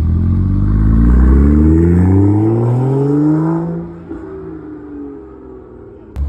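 A car engine under hard acceleration, its note climbing steadily for nearly four seconds, then falling away and fading as the car pulls off. The sound jumps abruptly near the end.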